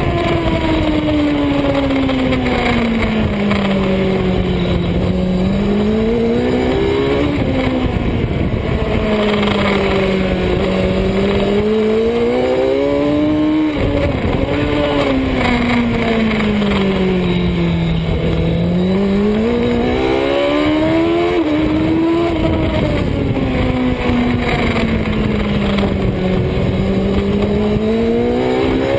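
Superbike engine running on track under load, its revs sliding slowly down and climbing again several times, with a few abrupt pitch jumps where gears are changed.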